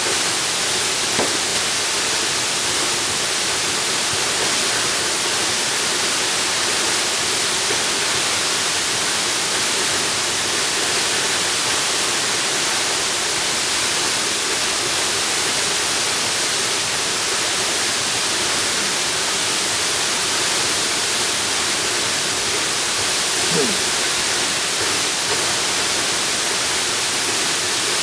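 Jungle waterfall: a steady, unbroken rush of falling water.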